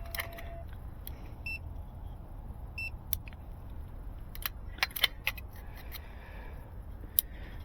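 Two short high electronic beeps, about a second and a half in and again about a second later, over a steady low rumble. Scattered sharp clicks and taps of small tools and fiber being handled, the loudest near the five-second mark and again near the end.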